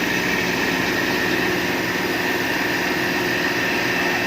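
Truck-mounted water sprinkler running its spray: a steady engine and pump drone with a constant high whine over a loud, even hiss.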